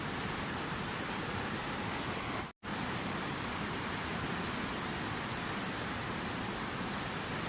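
Steady rushing water, an even hiss spread across high and low pitches. It cuts out completely for a split second about two and a half seconds in.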